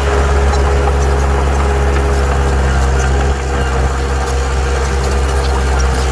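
Diesel engine of heavy earthmoving machinery, a bulldozer or dump truck, running steadily with a deep rumble and a constant pitch.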